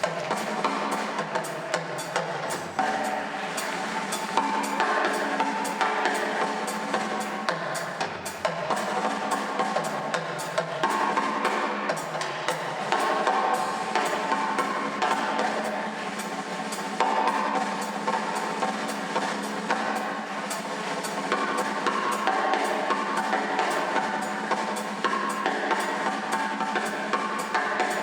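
Brass band playing live: massed horns carrying the tune over a drum kit keeping a steady, busy beat.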